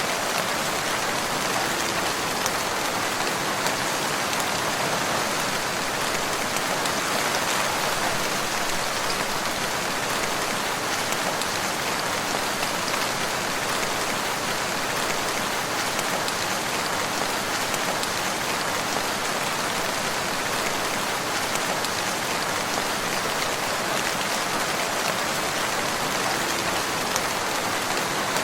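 Steady rain falling on a surface, an even hiss with the patter of individual drops, unchanging in intensity.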